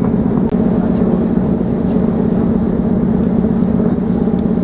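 Steady low drone of a cross-channel car ferry under way, with a constant rushing noise over it.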